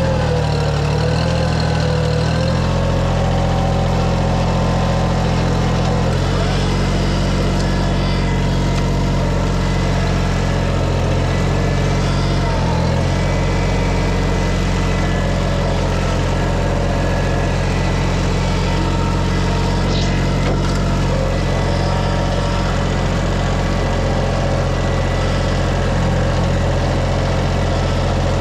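An engine running steadily at a constant speed, its pitch shifting slightly a couple of times in the first few seconds.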